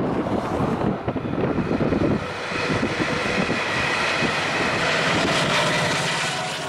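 Wind buffeting the microphone. Then, from about two seconds in, a New Mexico Rail Runner Express commuter train's diesel locomotive runs with a steady high whine as the train comes in to its station stop. The sound drops away suddenly at the end.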